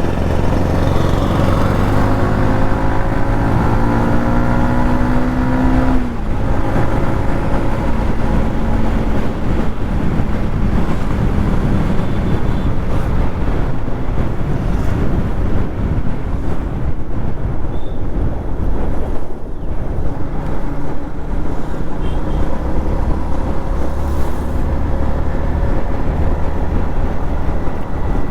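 Yamaha MT-15's single-cylinder engine accelerating, its pitch rising for about six seconds, then dropping suddenly at a gear change; it then runs at a steadier speed under heavy wind noise on the microphone.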